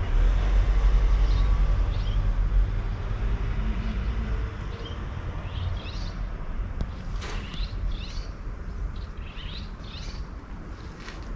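Small songbirds chirping, short high calls scattered through, more of them in the second half. Under them a low rumble is loudest in the first few seconds, then drops away.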